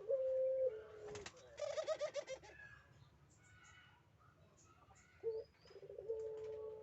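Male Barbary dove (puter) giving its courtship coo: a long held coo that drops a little in pitch, a rapid rolling burst about a second and a half in, then a short note and another long coo near the end.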